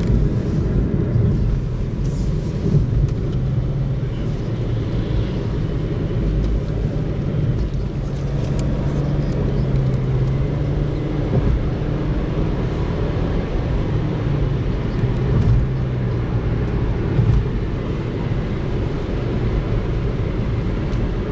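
Inside a moving car's cabin: the steady low rumble of engine and road noise while driving.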